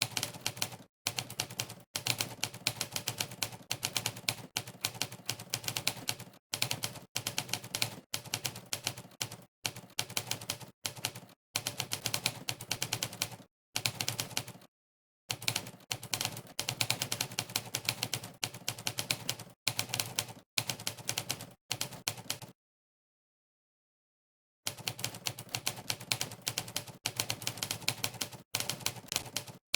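Monkeytype's typewriter keystroke sound effect: rapid runs of typewriter key clacks, one per key press, broken by short gaps of complete silence and a pause of about two seconds past the middle.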